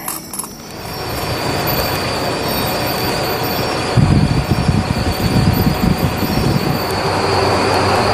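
Train moving on the rails: a steady high-pitched wheel squeal over a rumble that builds up. The rumble gets louder and rougher about four seconds in.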